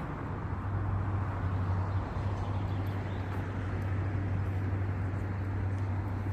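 Steady background rumble and hiss with a constant low hum, without any distinct events.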